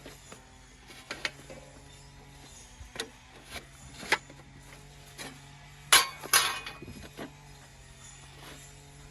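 Metal camping gear handled with gloved hands: scattered clicks and clinks as a stuck part is worked loose, the loudest pair of knocks about six seconds in.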